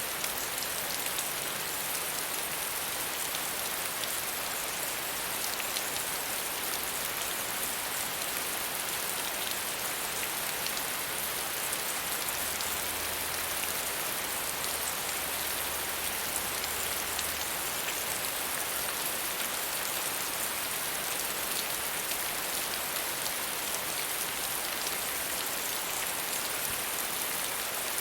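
Steady, gentle rain falling on a surface, an even patter of drops that holds at one level.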